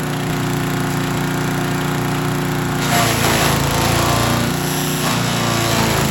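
Troy-Bilt chipper/shredder, fitted with new chipper blades, running steadily on its gas engine; about three seconds in, a louder, rougher chipping noise joins it as material is fed through and chipped.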